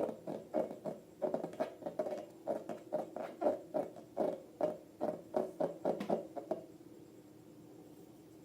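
A rapid run of short squeaks, about three to four a second, that stops about six and a half seconds in and leaves a faint steady hum.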